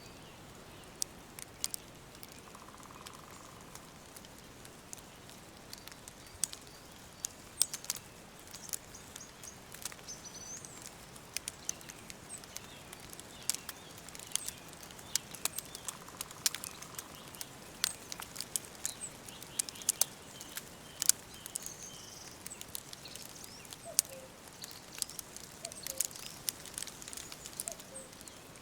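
Wood fire crackling, with frequent sharp, irregular pops over a soft steady hiss, while small birds chirp faintly now and then.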